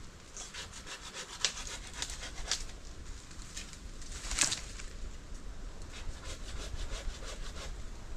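Wood being cut with a hand saw: a series of quick, even strokes in two runs, with one louder stroke midway between them.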